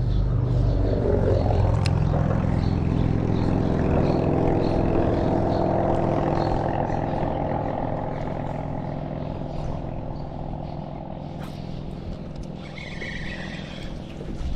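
An engine running steadily as it passes by, loudest in the first few seconds and then slowly fading away.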